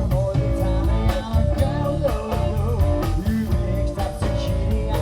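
Live band playing an upbeat number with a steady drum beat and a melody over it, without sung words.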